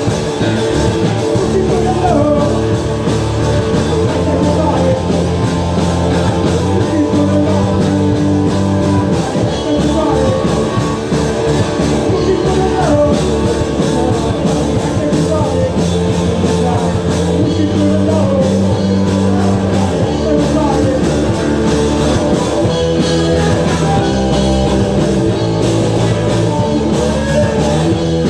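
Live rock band playing a guitar-driven song, loud and unbroken, with guitars over bass and drums.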